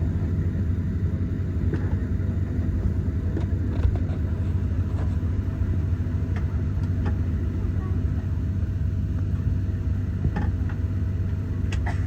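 Steady low hum inside a Boeing 737 cabin, the air-conditioning and ventilation running, with scattered light clicks and knocks.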